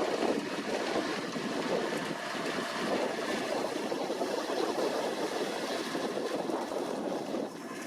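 New Holland T7.290 tractor running steadily while working a KUHN hay tedder, mixed with wind buffeting the microphone; the level dips briefly near the end.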